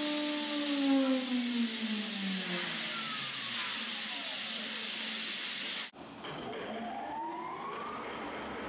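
High-speed CNC router spindle (16 HP HSK-63F tool-change spindle) whining as it winds down: its pitch falls steadily over a few seconds. After an abrupt break, a rising whine follows as a spindle spins up again.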